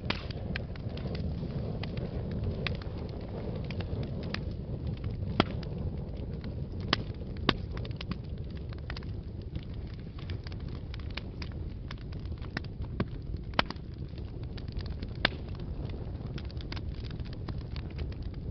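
Wood fire burning in a fireplace: a steady low rumble of flames with irregular crackles and sharp pops, a handful of them louder than the rest.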